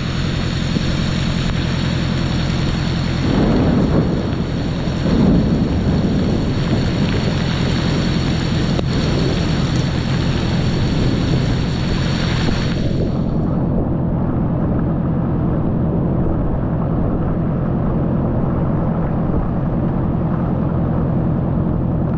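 Motorcycle engine running under way, under a loud rushing hiss of wind and storm rain on the microphone. There are two louder swells about four and five seconds in. The high part of the hiss drops away about thirteen seconds in, leaving the engine and a lower rush.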